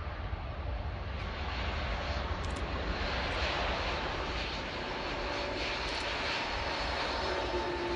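Airliner engines running, a steady rush with low rumble and a faint steady whine, growing slightly louder about three seconds in.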